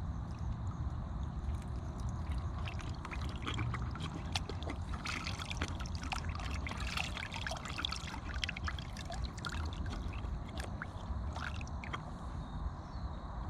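Water splashing and sloshing in a horse's automatic waterer as the horse laps and drinks from it, busiest in the middle of the stretch, over a steady low rumble.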